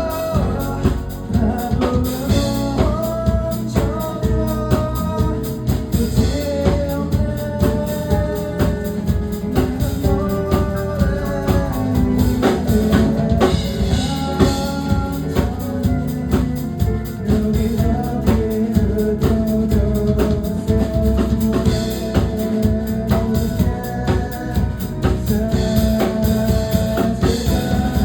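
Band music with a full drum kit and bass under a melodic lead line, in an instrumental passage without singing.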